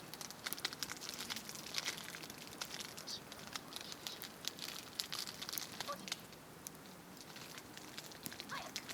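Wood campfire crackling, with many sharp, irregular pops and snaps that come thickest in the first few seconds.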